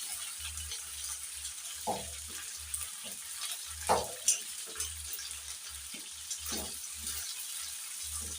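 Chicken gizzards sizzling in hot oil with fried onions, garlic and ginger as they are stirred, a spoon scraping against the pot a few times.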